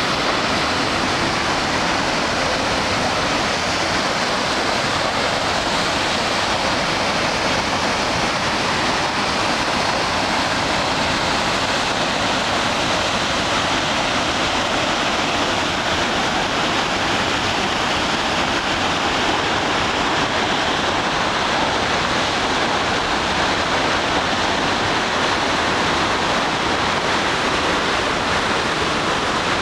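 A large, powerful waterfall: falling water rushing in a loud, steady, unbroken noise.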